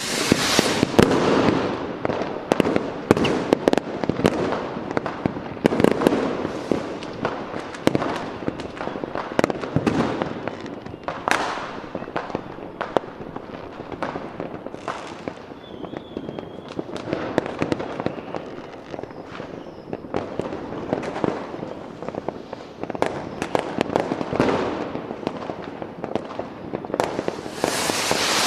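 Fireworks going off continuously: a dense stream of bangs and crackling, with a couple of brief whistles about halfway through.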